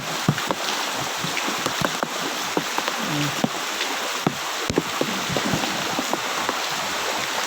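Heavy rain falling on floodwater: a steady hiss with many scattered sharp drop impacts.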